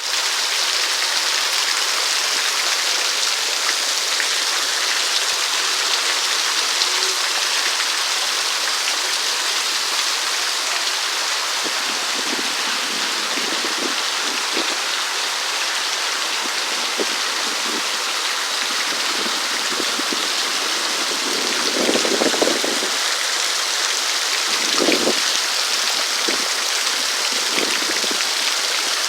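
Steady rain falling, an even hiss, with a couple of brief, lower and louder swells of water noise about three-quarters of the way through.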